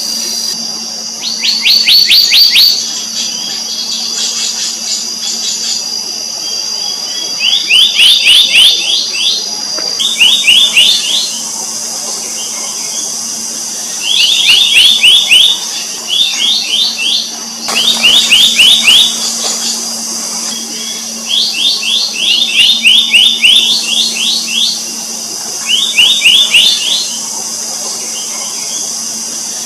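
Black-naped monarch calling: bursts of rapid, ringing, down-slurred notes, each series lasting one to two seconds and coming every few seconds. Beneath them runs a steady high insect buzz and a faint low hum.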